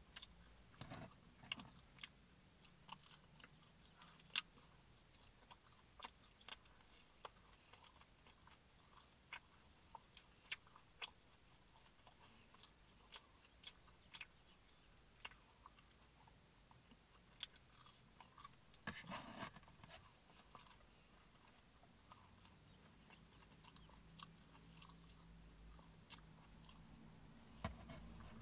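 Quiet close-up chewing of pepperoni pizza: soft mouth clicks and smacks scattered throughout, with one longer, louder stretch of chewing about two-thirds of the way through.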